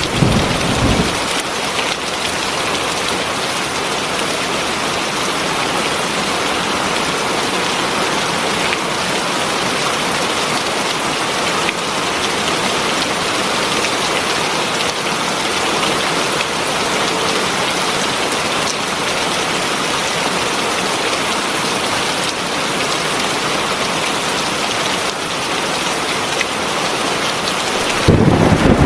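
Heavy rain falling steadily, an even hiss of many drops on surfaces. A low rumble of thunder dies away in the first second, and another begins near the end.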